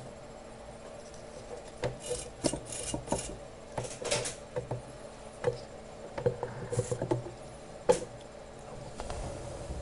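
Small hand tools scraping and tapping at a soldering bench: a run of short rasping scrapes and sharp clicks, irregular, over a steady low hum.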